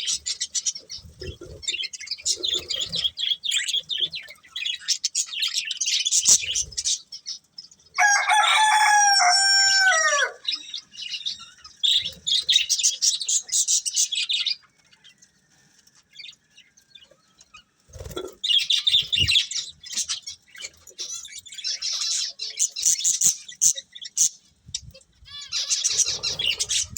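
Budgerigars chirping and chattering in quick bursts, with a pause just after the middle. About eight seconds in, one long, louder call lasts a couple of seconds and drops in pitch at its end.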